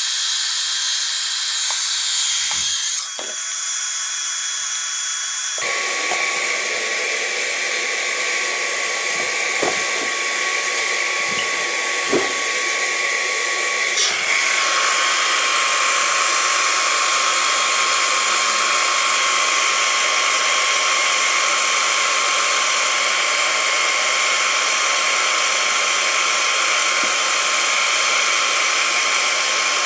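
Hot-air plastic welding gun blowing steadily, a hiss with a steady whine that shifts about 6 s in and grows fuller about 14 s in. A few light knocks sound in between.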